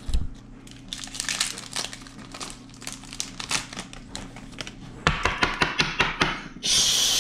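Foil wrapper of a football trading-card pack crinkling as it is torn open. A quick run of sharp clicks follows near the end, about six a second, then a brief hissing rip.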